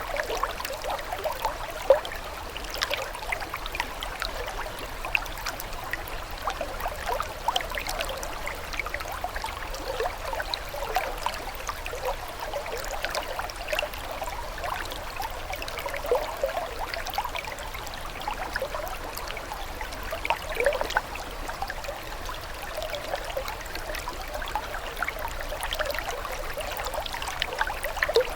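Running water flowing steadily, with a dense patter of small splashes. One splash about two seconds in is louder than the rest.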